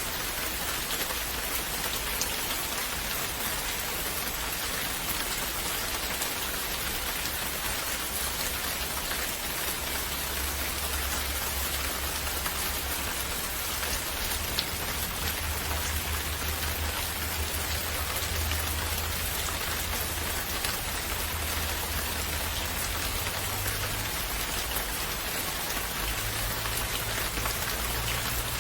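Steady, gentle rain falling, an even patter of many drops, with a low rumble underneath from about ten seconds in.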